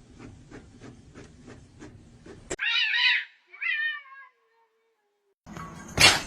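A domestic cat meowing twice, the second meow trailing off downward in pitch. Before the meows, faint ticking at about four to five a second; a loud noisy passage begins near the end.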